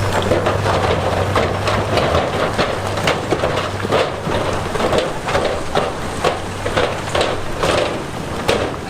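Heavy diesel machinery running low under a rapid, irregular clatter of hard knocks, like stone knocking and tumbling or steel parts clanking.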